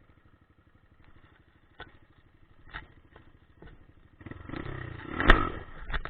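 Dirt bike engine chugging at low speed with a few sharp knocks and rattles, then opening up louder about four seconds in, with one loud knock at its peak.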